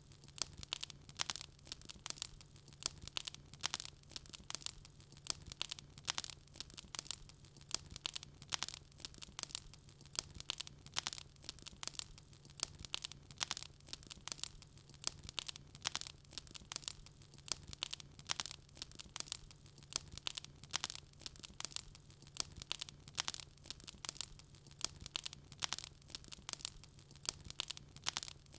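Wood fire crackling: a dense, irregular stream of sharp pops and snaps, several a second, with a faint steady low hum beneath.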